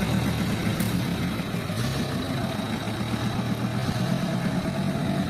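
Sawmill machinery running steadily: a continuous low mechanical hum with a thin, steady high whine above it.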